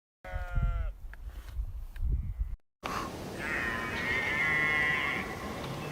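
A short animal call falling in pitch, followed by a few low thumps. After a cut, a second, longer animal call of about two seconds sounds over steady background noise.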